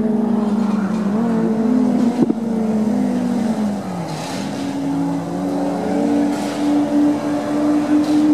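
Touring race car engines running hard on a circuit. The engine pitch wavers and dips as the cars slow, then climbs and holds high as they accelerate away. There is a single sharp click a little over two seconds in.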